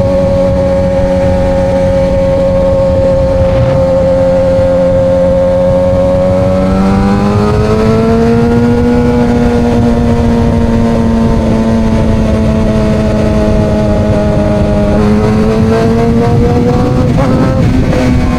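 Suzuki GSX-R750 inline-four motorcycle engine through Coffman slip-on exhausts, running at steady cruising revs. About seven seconds in the pitch rises as it accelerates, then holds, dips slightly and climbs again near the end. A low rush of wind noise runs underneath.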